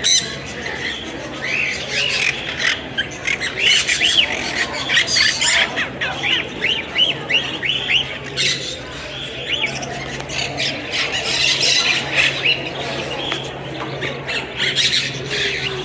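Many birds squawking and chirping together in quick, repeated short calls, over a steady low hum.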